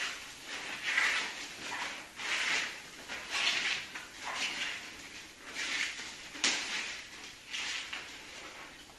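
Repeated scraping or rasping strokes, about one a second, with a sharp click about six and a half seconds in.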